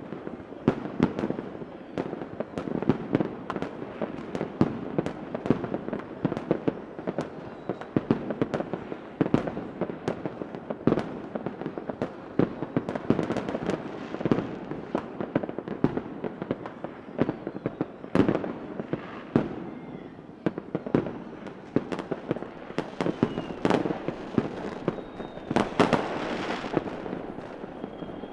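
Fireworks going off in a continuous barrage of irregular sharp bangs over steady crackling. A few faint whistles come in the second half.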